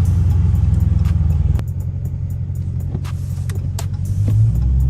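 Dodge Charger R/T's Hemi V8 running as the car is driven. It eases off about a second and a half in, then picks up again near the end.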